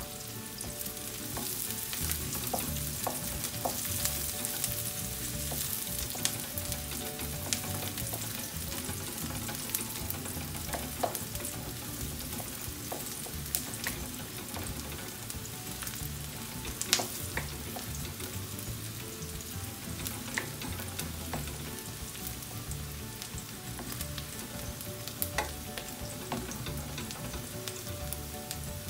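Sliced onion and garlic sizzling in oil in a wok, with a wooden spatula scraping and knocking against the pan now and then as it is stirred.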